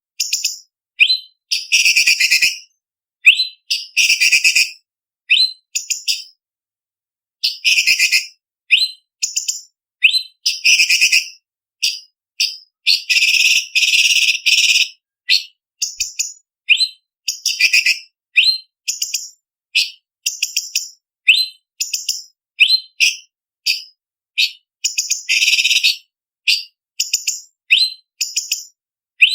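Orange-bellied leafbird (cucak cungkok) singing: rapid strings of short, sharp, high-pitched whistled notes broken up by harsh chattering rattles lasting a second or two, with brief silent gaps between phrases.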